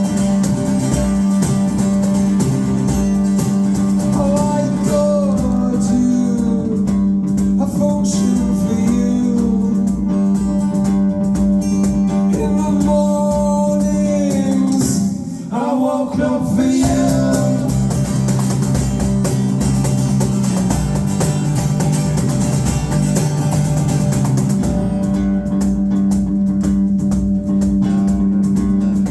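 A live band playing a song: strummed acoustic guitar over bass, with a voice singing a melody through the first half and a short break about halfway through.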